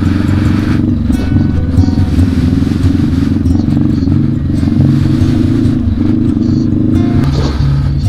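Adventure motorcycle engine running steadily over a rocky dirt trail, mixed with background music.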